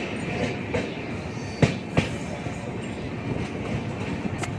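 Passenger train coach running on the rails with a steady rumble. A pair of sharp wheel clacks over a rail joint comes about a second and a half in, and a single clack near the end.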